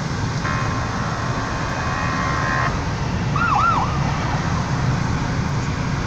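An ambulance siren passing a moving car: a steady blaring tone for about two seconds, then a quick whooping sweep that rises and falls a few times, over the car's steady road rumble.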